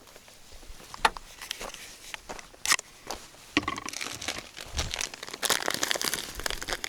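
Crinkly packaging being handled: scattered crackles and taps at first, then denser, louder crinkling from about two thirds of the way through.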